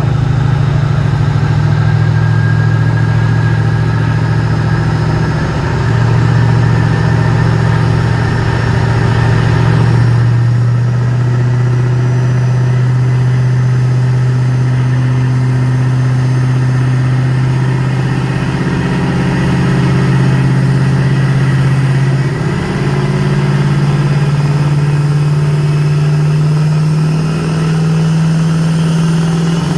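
Pulling truck's engine held at high revs through a full pull down the track, dragging the weight-transfer sled. The drone stays steady and loud, its pitch shifting a few times as the truck works against the growing load.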